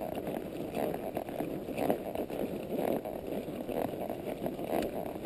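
Horse walking under a rider, with a steady rustling noise and irregular soft footfalls.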